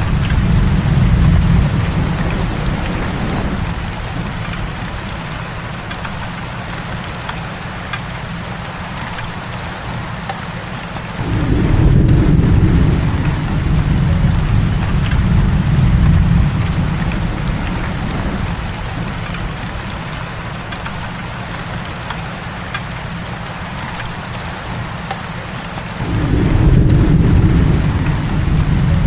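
Heavy rain falling steadily, with deep thunder rumbling in long rolls several times: one fading a few seconds in, one starting about 11 seconds in, and another near the end.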